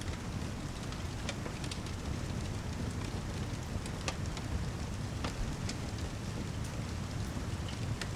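Steady heavy rain with a low continuous rumble, mixed with a fireplace crackling: scattered sharp snaps a few times a second.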